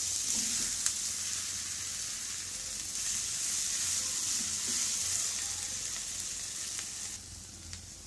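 Mashed potato and onion masala sizzling in oil in a kadai while it is stirred and mixed, with a couple of light clicks. The sizzle drops quieter about seven seconds in.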